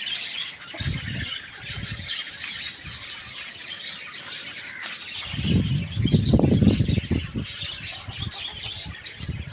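Many birds chirping and squawking without a break, and a louder low rumbling noise for about two seconds past the middle.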